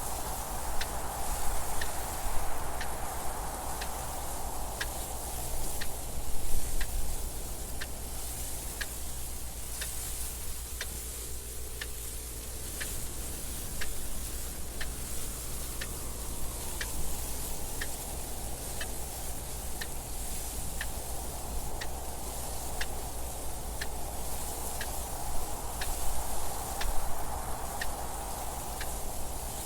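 Clock ticking with steady, evenly spaced ticks over soft wind noise. The wind swells near the start, fades in the middle and rises again near the end.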